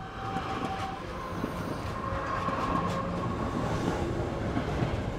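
Train rolling on the rails, a steady rumbling noise with a few faint thin high tones in the first seconds.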